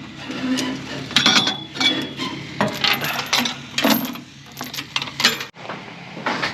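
Ratchet tie-down strap being cranked to secure a machine on a trailer: irregular metallic clicks and clanks, some ringing briefly. About five and a half seconds in, the sound cuts off abruptly to a steady low hum.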